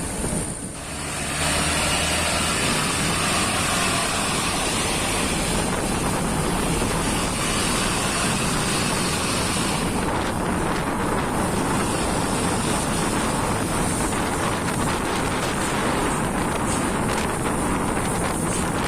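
A truck under way: engine running under a steady rush of road and wind noise. The sound dips briefly about half a second in, then holds steady.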